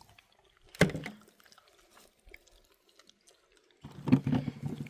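A short sharp snap a little under a second in, then close, wet chewing of a ripe wild fig from about four seconds in.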